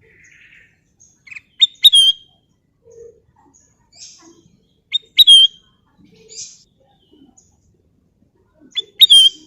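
A kutilang emas bulbul calling: three short whistled phrases a few seconds apart, each a quick high note and then a loud note that slides down. Fainter chirps fall in between.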